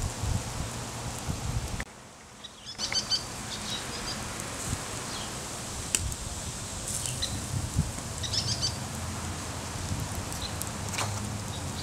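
Small birds chirping in short clusters of high notes, several times over a steady outdoor background. There are a few scattered clicks.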